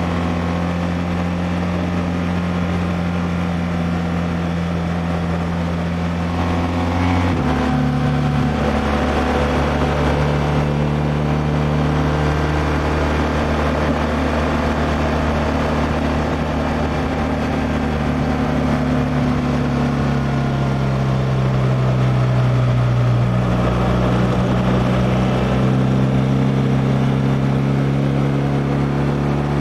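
BMW R1200R LC's liquid-cooled boxer twin running under way, heard from the rider's helmet with road and wind noise. The engine note changes sharply about seven seconds in, then drifts down and back up in pitch later on.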